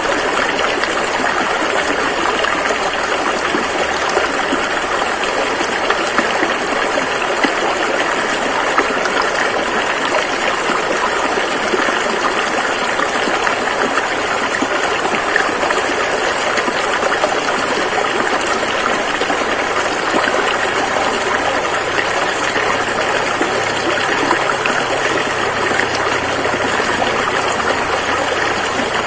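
Rushing river water flowing in a steady, unbroken rush, with a low hum coming in underneath in the last third.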